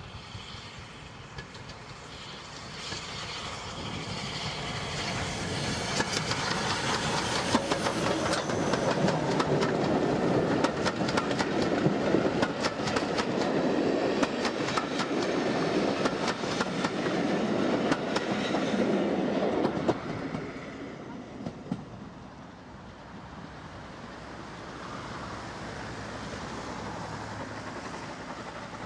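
Steam-hauled train passing, its carriage wheels clicking rapidly over the rail joints. It builds up over the first few seconds and fades quickly about twenty seconds in.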